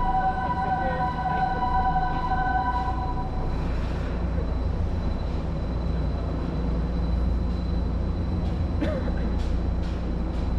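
A steady electronic warning tone sounds over a loud low machinery rumble and cuts off about three seconds in; the rumble runs on, with a few sharp clicks near the end.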